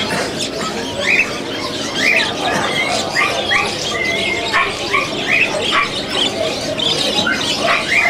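Small caged birds chirping, a quick series of short rising calls, over steady background noise.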